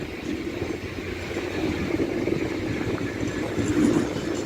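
Freight locomotives coupled together, Class 66 leading with a Class 73 and Class 69s behind, passing through the station: a steady rumble of engines and wheels on rail, growing louder towards the end.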